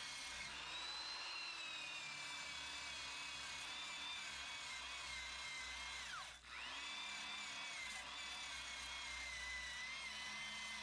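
Old high-speed Black & Decker electric drill running with a wire wheel, scrubbing rust off a steel exhaust pipe: a steady high whine over a scratchy hiss. About six seconds in the motor slows sharply and then spins back up.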